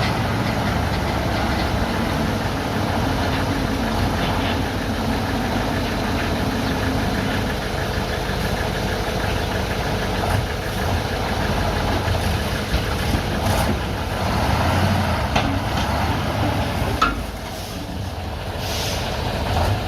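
Bulldozer engine running steadily, with scattered knocks and one sharp clank about seventeen seconds in.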